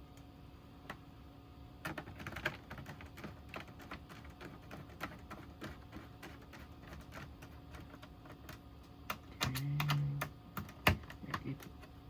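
Small irregular clicks and taps of hands working small parts and screws inside an opened oscilloscope during reassembly, with a sharper, louder click near the end.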